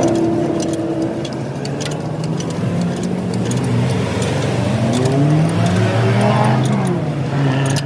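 Truck engine running, its revs rising and falling several times in the second half, with scattered sharp metallic ticks over it.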